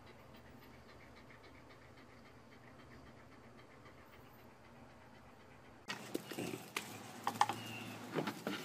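A dog panting softly in quick even breaths. About six seconds in, this gives way to louder knocks and taps of a goat's hooves on a wooden ramp.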